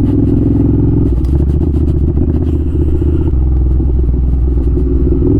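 Ducati Scrambler 800's air-cooled L-twin engine running steadily under way at low revs, its note changing about three seconds in.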